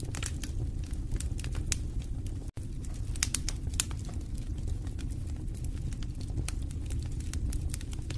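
Wood fire in a fireplace crackling: irregular sharp pops and snaps over a steady low rumble of the flames, with a momentary dropout about two and a half seconds in.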